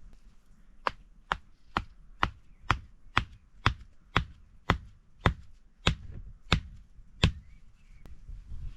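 A hand tool striking again and again, about thirteen sharp blows at roughly two a second, slowing slightly toward the end.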